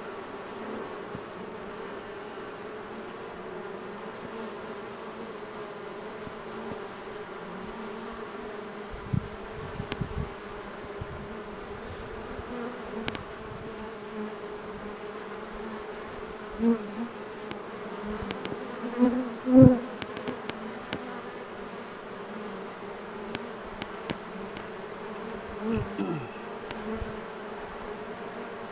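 A swarm of honey bees flying around a hive box, the many wings making a steady buzz, while the swarm orients to its new box. Now and then a single bee buzzes loudly close past, loudest about two-thirds of the way in, and one near the end drops in pitch as it goes by.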